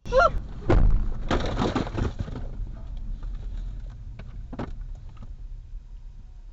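A car strikes a deer: a brief rising call, then a loud thump about a second in and a second or so of crunching clatter, with another knock later. Steady low road noise runs underneath as the car keeps moving.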